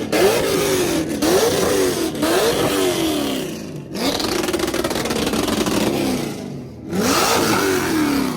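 A car engine revved hard again and again in free-revving blips. Each rev rises quickly in pitch and then falls back as it drops toward idle, about six times, with a brief lull before the last rev near the end.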